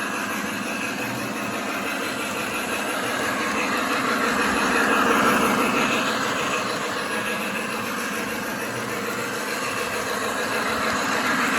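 Lionel Union Pacific model train locomotive running, with a steady engine-like sound that swells about halfway through and again near the end.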